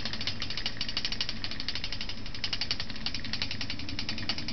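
1934 Emerson 8-inch Seagull fan coasting down after being unplugged, with a rapid, even clicking rattle as the out-of-balance blades spin.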